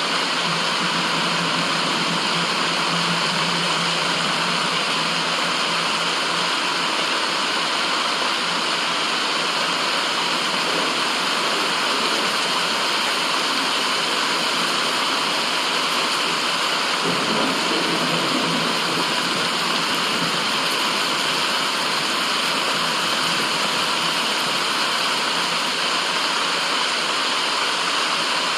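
Steady, even rushing of running water, with a faint low hum underneath.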